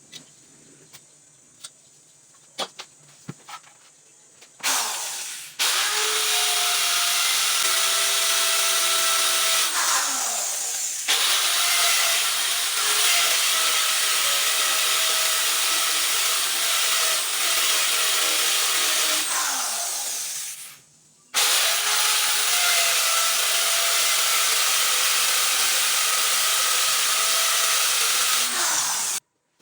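Electric power tool running on wood. It spins up with a rising whine about five seconds in and runs steadily. It dips briefly near eleven seconds, winds down around twenty seconds, then starts again and cuts off just before the end. A few light clicks and taps come before it starts.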